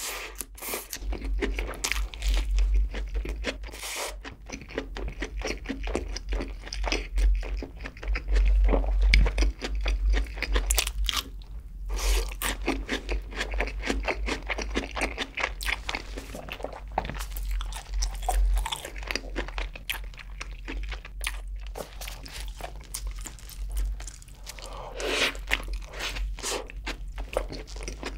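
Close-miked chewing of a mouthful of cheeseburger, a dense, irregular run of small wet clicks and crunches.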